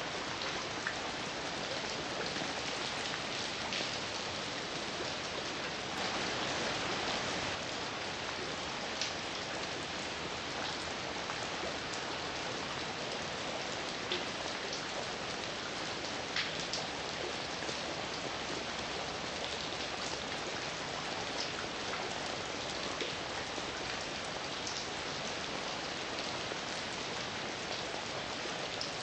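Steady heavy rain falling, with a dense hiss and scattered individual drops striking a surface.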